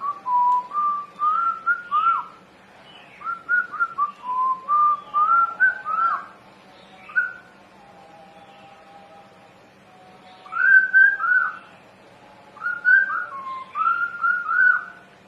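Pet budgerigar whistling a tune: phrases of clear whistled notes with short upward-curling slides and a few-second pause midway, along with faint higher chirps.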